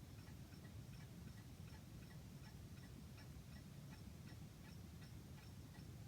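A mechanical clock ticking faintly with a steady, even beat.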